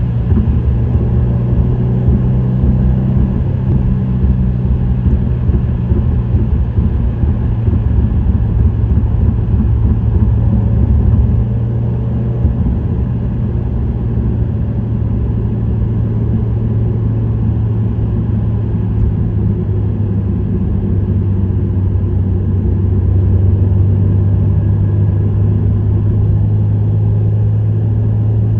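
Subaru WRX STI's EJ20 turbocharged flat-four, breathing through an STI Performance muffler, droning steadily at cruising speed. It eases off a little about twelve seconds in and builds again in the last third.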